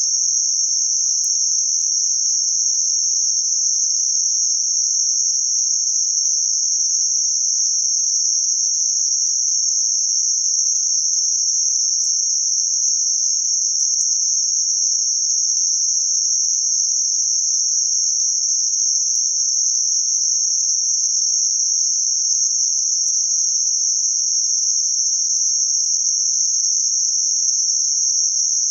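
Synthetic band-limited noise centred around 6051 Hz: a steady, high, hissing band of noise with no change in level.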